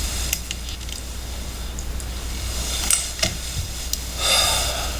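A person settling into a chair: scattered small clicks and knocks and a brief rustling scrape about four seconds in, over a steady low hum.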